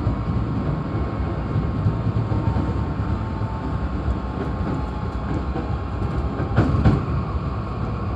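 Hankyu 8300-series electric commuter train running between stations, heard from inside the front car: a steady rumble of wheels on rail, with a brief louder clatter about six and a half seconds in.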